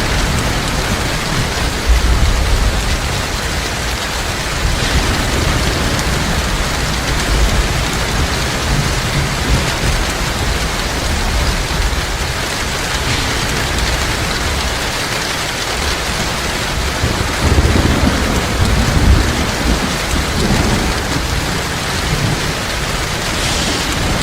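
Heavy rain falling steadily, with low rumbles of thunder about two seconds in and again a little past the middle.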